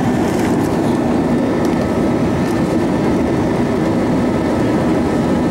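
Steady cabin noise of an Airbus A320-232: the drone of its IAE V2500 turbofan engines and the rush of air, a low rumble with a few faint steady whining tones above it.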